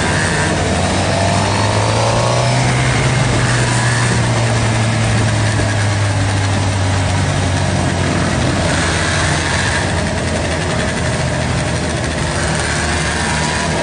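Sport motorcycle engine running at low speed, a steady drone with a brief climb in pitch about two seconds in, over wind and road noise.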